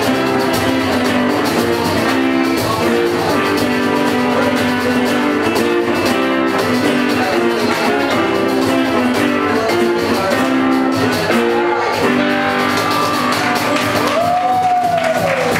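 A live rock band playing: electric guitars and drum kit, loud and steady.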